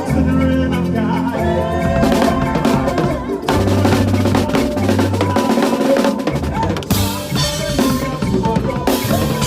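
Drum kit playing a makossa praise groove with a band, over a steady bass line, with many snare and kick strokes.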